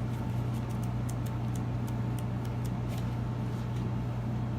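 Steady low hum with no pauses, with a few faint light clicks or taps over it in the first few seconds.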